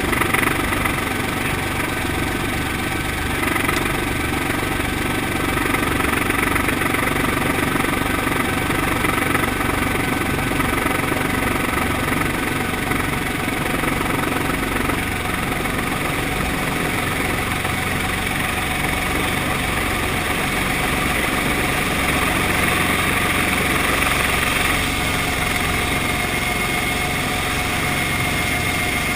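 Brantly B-2B helicopter's four-cylinder piston engine and rotors running steadily, a dense mechanical drone of many steady tones with slight swells in loudness.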